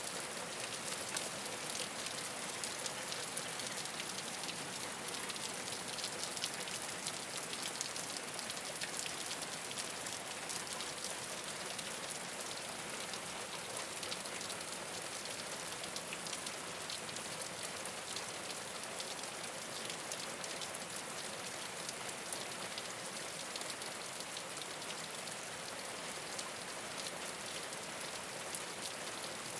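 Steady rain falling on a rooftop, a dense even hiss flecked with countless small drop hits.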